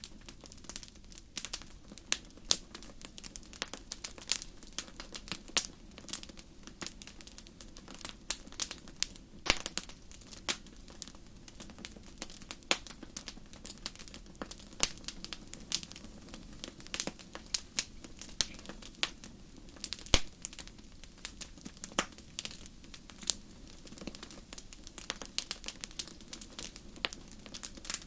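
Wood fire crackling: irregular sharp pops and snaps of burning logs over a low steady rumble of the flames.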